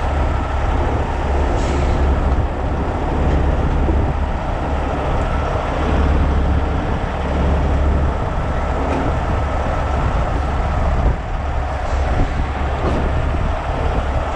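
Heavy diesel truck engine running steadily with a deep, even rumble. A faint steady whine runs over it and stops about eleven seconds in.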